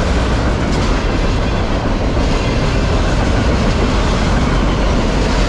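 Freight train cars rolling past at close range: a loud, steady rumble of steel wheels on the rails.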